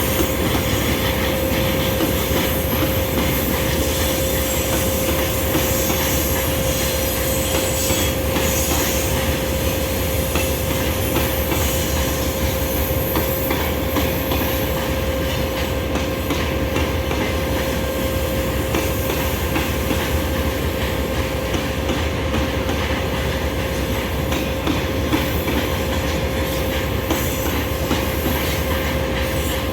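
Train moving along the rails: a steady, loud running noise of wheels on track, with a constant mid-pitched tone over it.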